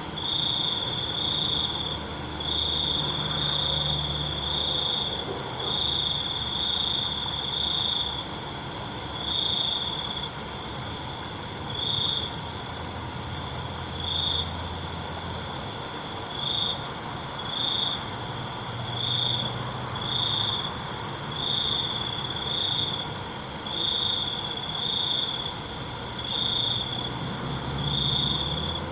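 Crickets chirping at night: one loud cricket trills in repeated bursts of about half a second to a second with short gaps, over a steady, higher-pitched chorus of other insects.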